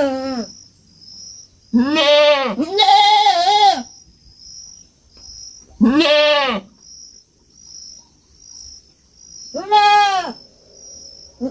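Goat kid bleating: four bleats of about a second each, rising then falling in pitch, the first two close together and the others a few seconds apart.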